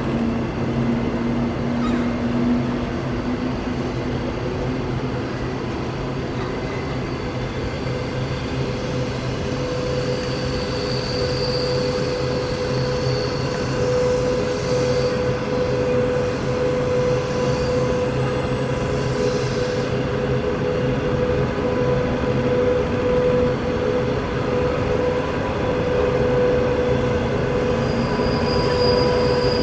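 Train running along the line: a steady rumble of wheels on rail with a thin high squeal from the wheels. A steady mid-pitched tone joins about a third of the way in.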